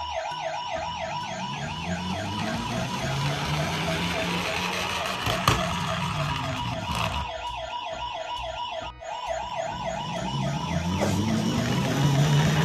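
Toy ambulance's electronic siren sounding, a fast warbling yelp of about four rises and falls a second. It cuts out briefly about nine seconds in, then starts again.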